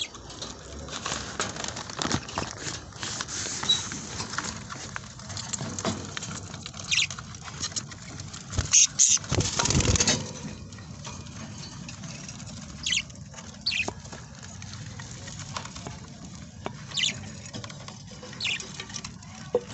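Budgerigars rustling and scratching about, with scattered short, sharp chirps and a louder flurry of rustling about nine seconds in.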